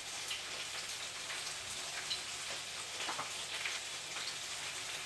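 Chicken pieces frying in a pan with onion, garlic and freshly added pineapple, a steady sizzling hiss with scattered small crackles.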